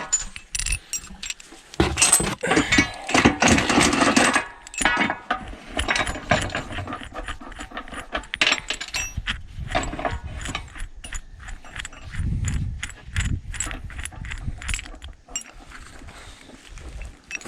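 Metal clinking and rattling of wheel nuts, bolts and tools being handled while a skidder dual tire is bolted on, with a louder stretch of mechanical noise about two seconds in lasting a couple of seconds, then many short clicks and knocks.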